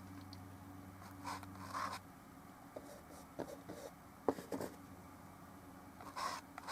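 Paintbrush working oil paint on a small painting: a few soft scrubbing strokes, with light taps and clicks in between at irregular intervals.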